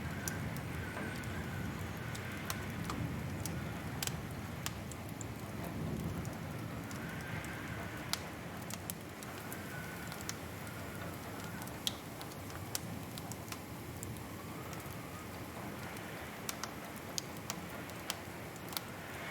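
Wood fire crackling in a fireplace: irregular sharp pops and snaps over a steady low rush.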